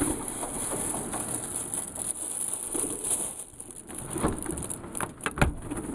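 Pigeons cooing over a steady hiss, with a few sharp taps in the last two seconds.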